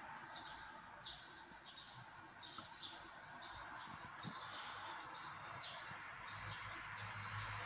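Small birds chirping: short, high chirps that fall in pitch, repeated irregularly, over a faint steady hiss of street noise.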